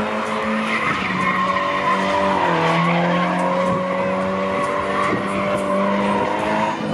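Car engine held at high revs while the tyres skid and squeal through donuts, burning rubber. The engine note drops a little about two and a half seconds in, then holds.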